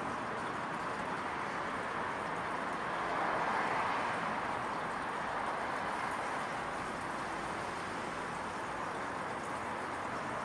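Evening ambience of a residential neighbourhood: a steady hum of distant traffic, swelling slightly for a moment about three seconds in.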